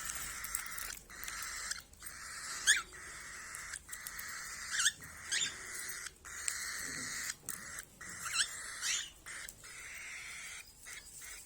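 Caged pet birds chirping and warbling, with a handful of quick sharp calls over a steady chatter.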